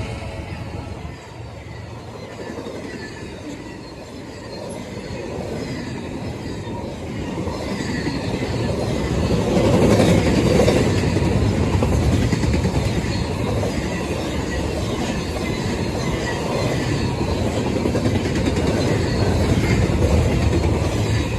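BNSF train rolling past, a steady rumble with wheels clattering over the rail joints, growing louder about eight to ten seconds in.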